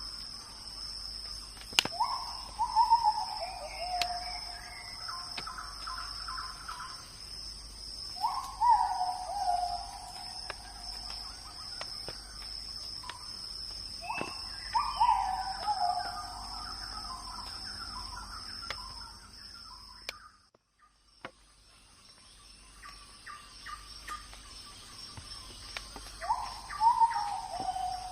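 Night forest ambience: insects drone in two steady high tones, and an animal gives a short falling call, repeated four times about six seconds apart. The ambience briefly drops out about two-thirds of the way through.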